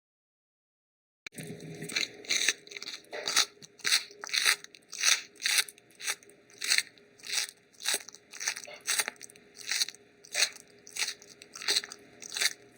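An animal chewing food with steady, rhythmic crunches, about two a second, starting after a second of silence.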